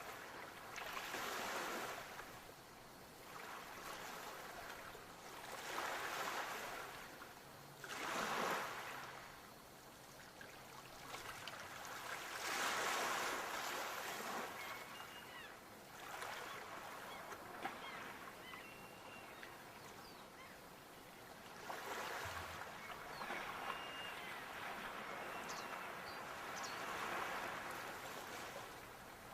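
Sea waves washing in and breaking on the shore, the surf rising and falling in swells every few seconds.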